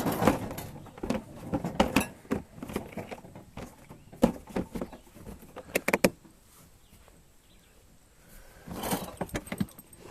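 Camp cooking gear being handled: a run of clinks, knocks and rattles for about six seconds, then a quieter stretch and a brief rustle near the end.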